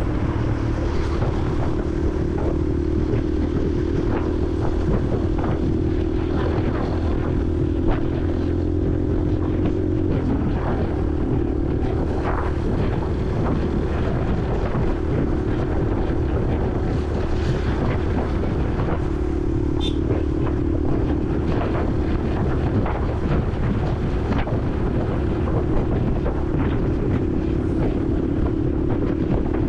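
Honda CRF150L's single-cylinder four-stroke engine running steadily at a cruise, heard from the rider's helmet with wind on the microphone. The engine note dips briefly about a third of the way in, then picks back up.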